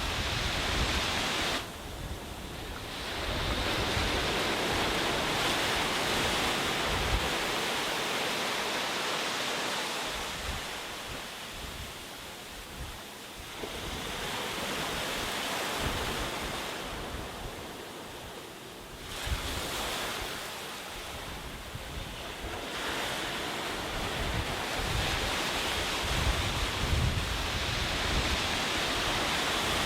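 Sea waves breaking and washing on a beach, the surf swelling and easing off every several seconds, with gusts of wind buffeting the microphone.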